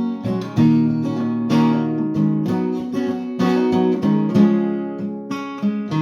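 Acoustic guitar, capoed at the sixth fret, strumming the song's chords: a steady run of strokes with the chords ringing between them.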